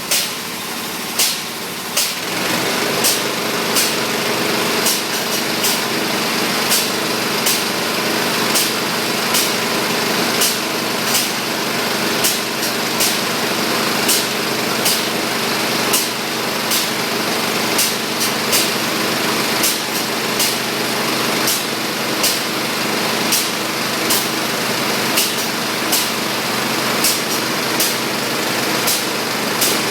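Polyurethane spray foam equipment running: a steady hiss over a constant machine hum, with sharp clicks about once or twice a second.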